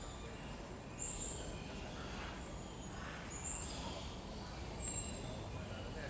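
A bird giving brief, very high, thin whistled notes, four in all, about a second or more apart, over a steady low background rumble.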